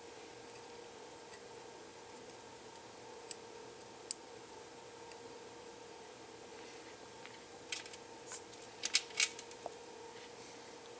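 Small sharp clicks and taps from handling electronic parts on a circuit board: a couple of single clicks, then a quick cluster of them near the end, over a faint steady hum.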